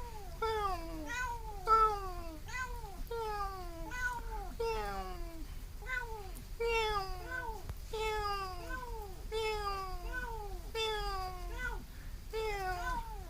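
A kitten meowing over and over, about one and a half short calls a second, each call falling in pitch.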